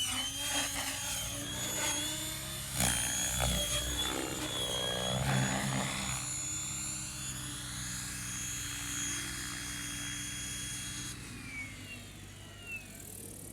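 Lockheed 286 helicopter running, with a steady high-pitched whine over the rotor noise. The sound is louder for the first six seconds or so, then settles quieter and steadier.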